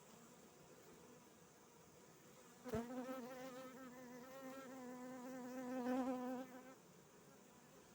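A honeybee flying close by, its buzz starting suddenly about a third of the way in, wavering slightly in pitch, swelling near the end and then fading out, over a faint steady background.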